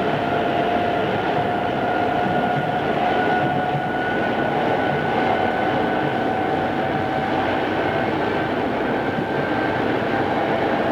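Odakyu 2600 series electric train running at speed, heard from on board: a steady rumble of wheels on rail under a high motor and gear whine that rises slightly in pitch.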